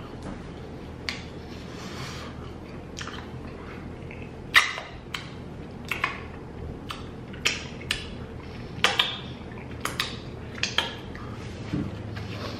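Close-up eating sounds: mouth smacks and clicks while chewing chicken wings and licking sauce from the fingers, over a low steady hum. About a dozen sharp smacks come at uneven intervals, the loudest about four and a half seconds in.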